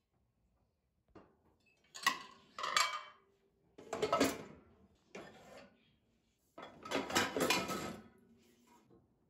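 Household objects being handled and set down during cleaning, in about five short bursts of clattering and rustling, the last and longest near the end.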